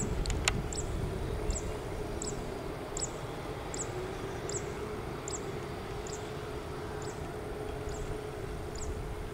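An animal's short, high, downward-sliding chirp repeated about every 0.7 seconds over a steady low outdoor rumble and a faint hum, with a single sharp click about half a second in.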